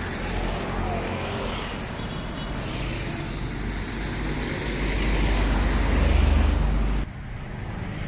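Car engine running with a steady low rumble that grows louder over a few seconds, then breaks off suddenly near the end.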